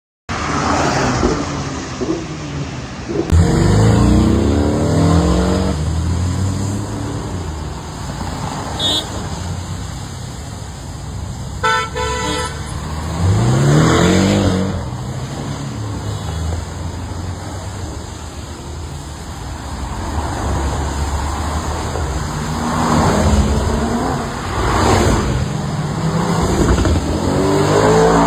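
Car engines revving several times, each rise in pitch falling back, with two short car horn toots a third of the way in.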